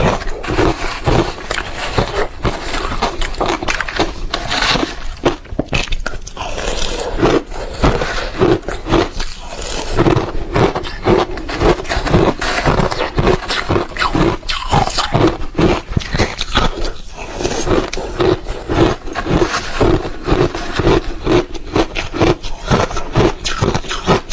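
Ice being bitten and chewed close to the microphone: loud, rhythmic crunching and cracking that goes on without a break.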